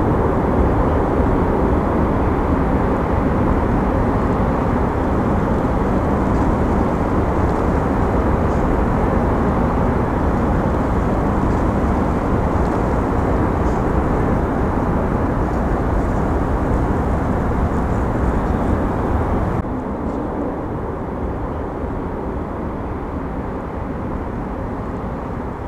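Steady rumble and hiss of a moving aerial tramway cabin, which suddenly becomes somewhat quieter about twenty seconds in.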